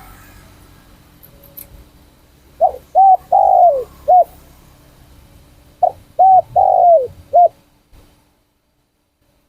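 Spotted dove cooing: two phrases of four notes, the third note in each drawn out longest, about three seconds apart. The sound cuts off suddenly near the end.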